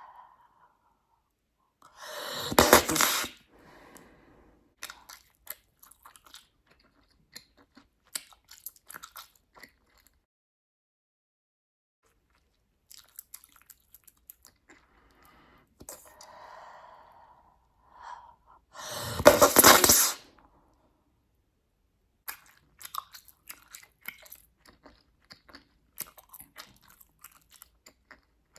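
Bubblegum being chewed with small wet snaps and clicks. Twice a large bubble is blown with a soft breathy sound and then popped with a loud burst lasting about a second, once about two seconds in and again near the twentieth second.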